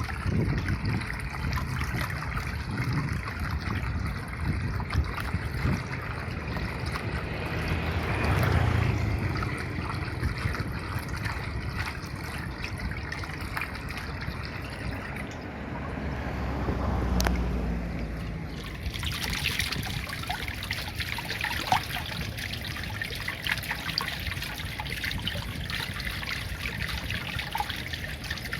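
Water trickling and flowing steadily, as from a small stream or irrigation channel. About two-thirds of the way in, the sound turns brighter and hissier.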